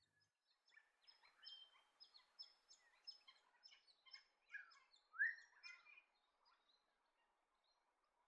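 Faint wild birds calling: a busy run of short, high chirping notes with a few rising calls, the loudest about five seconds in, dying away near the end.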